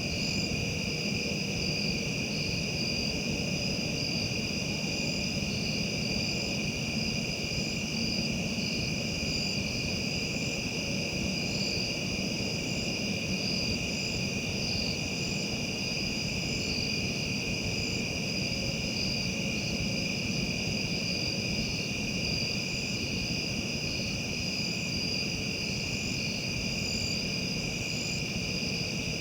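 Steady insect chorus, continuous high-pitched trilling in two pitch bands, over a faint low background rumble.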